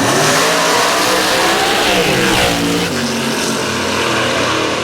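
Drag racing car engine at full throttle under hard acceleration, its pitch climbing and then dropping as it passes about two and a half seconds in.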